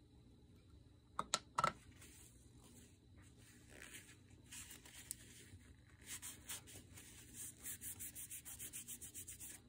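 A few sharp clicks, then quick rhythmic back-and-forth rubbing strokes on paper, several a second, as paint is worked onto a textured crafting surface; the rubbing stops abruptly near the end.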